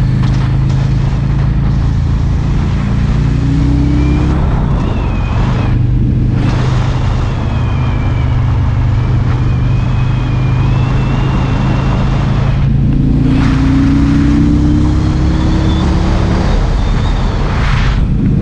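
Harley-Davidson Road King's V-twin engine running steadily under way, with wind and road noise. Its note climbs slowly twice as the bike picks up speed, with short lulls about six and thirteen seconds in.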